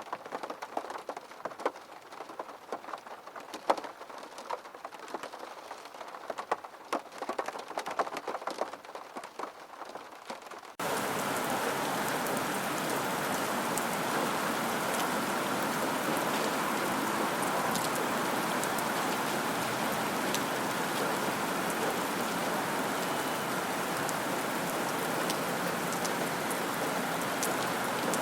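Rain: for about the first ten seconds, scattered separate drops falling on a surface. Then it cuts suddenly to louder, steady, dense rainfall.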